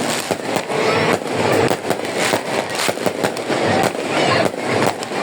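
Fireworks going off continuously, a dense run of bangs and crackles in quick succession with no pause.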